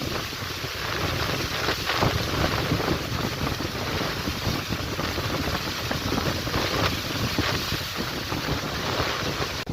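Gale-force wind gusting and buffeting the microphone, a continuous rushing noise that swells and eases in quick pulses.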